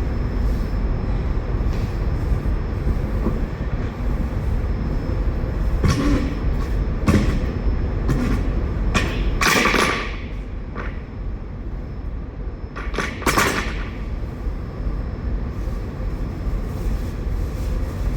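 Leftover potatoes being scraped and knocked loose from a trailer floor with a metal fifth-wheel tool: a few short scrapes and knocks, the loudest about nine to ten seconds in and again about thirteen seconds in, over a steady low engine rumble.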